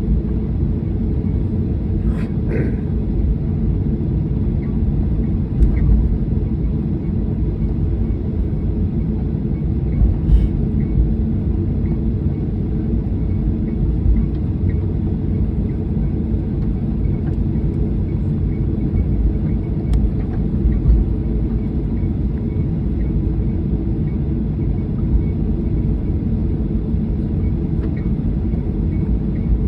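Steady low rumble of a passenger airliner heard from inside the cabin, with a few faint clicks.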